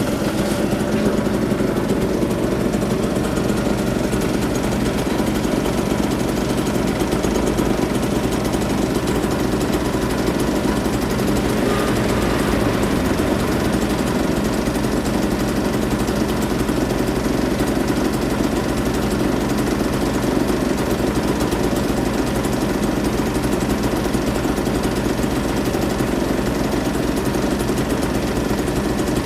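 Small two-stroke moped engine idling steadily.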